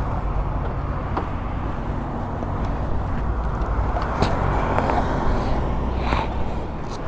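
Kawasaki ZX-10R's inline-four engine running at a steady highway cruise, with wind and road noise rushing over the microphone.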